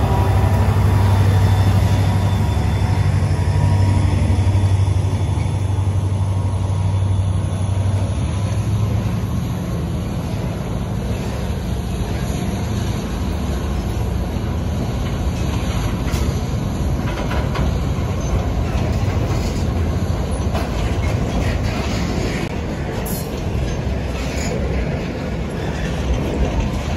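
Diesel locomotive passing close by, its low engine hum strong at first and fading over the first eight seconds or so. Then a long train of loaded container flatcars rolls past with a steady rumble of wheels on rail and scattered clanks and clicks.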